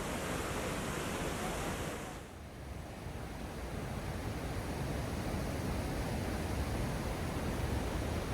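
Steady rush of falling water. It dips briefly about two seconds in, then returns with a deeper rumble.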